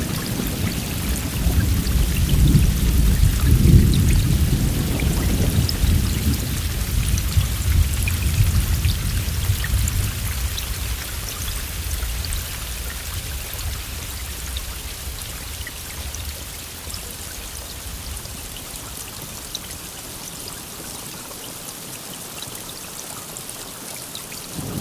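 Steady heavy rain with scattered drops pattering, under a long roll of thunder that is loudest a few seconds in and dies away over the next ten seconds or so, leaving the rain alone.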